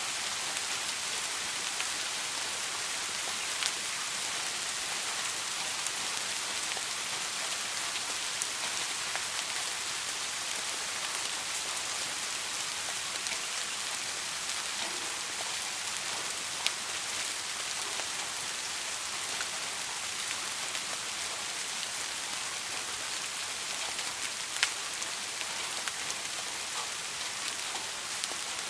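Steady soft rain: an even hiss of falling drops, with a few louder single drop clicks now and then.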